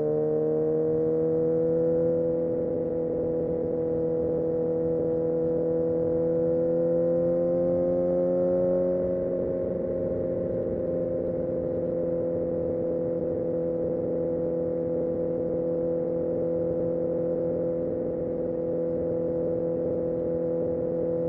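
Kawasaki Ninja ZX-6R inline-four engine and exhaust at steady cruising throttle. The note climbs slowly for the first nine seconds or so, eases back a little, then holds steady.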